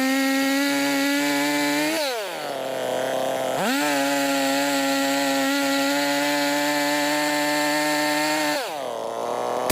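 Two-stroke chainsaw running at full throttle; the throttle is let off about two seconds in so the pitch drops toward idle, revved back up about a second and a half later, and let off again near the end.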